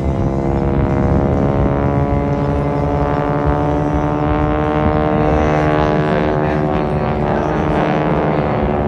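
Propeller drone of two SNJ (T-6 Texan) trainers, each with a nine-cylinder Pratt & Whitney R-1340 Wasp radial engine, flying aerobatics. The sound is a loud, steady drone whose pitch drifts slightly as the aircraft manoeuvre.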